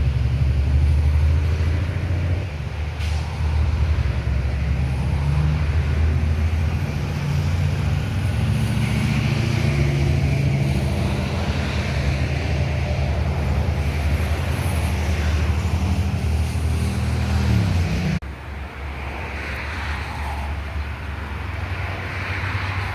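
Heavy truck's diesel engine running loud and low, rising slightly in pitch near the end before stopping suddenly about eighteen seconds in, leaving quieter road traffic noise.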